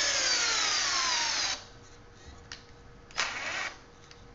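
Fogo cordless drill driving a screw into wood with its clutch set to step 10, the motor's pitch falling steadily as the screw goes in and the load rises, then stopping about a second and a half in. A shorter second burst from the drill follows about three seconds in.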